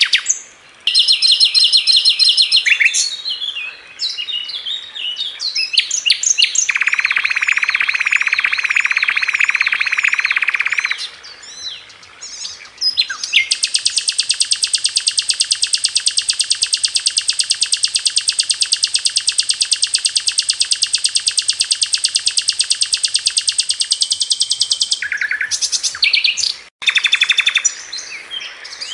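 Sikatan londo flycatcher song, a masteran training recording: a series of high, chattering phrases and rapid trills. Around the middle comes one very fast, long-held rattling trill of about ten seconds, the burst style bird keepers call 'tembakan'.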